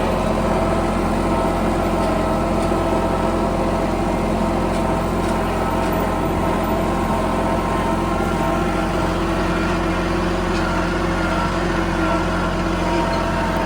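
Bad Boy 4025H compact tractor's engine running steadily at a constant speed.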